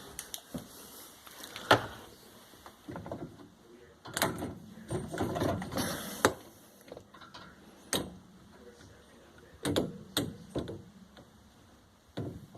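Irregular handling noise: sharp clicks and knocks scattered throughout, with a stretch of rustling and clattering in the middle.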